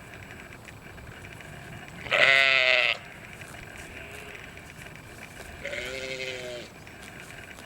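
A farm animal bleating twice: a loud call about two seconds in, lasting just under a second, and a fainter one near six seconds. Steady background noise runs underneath.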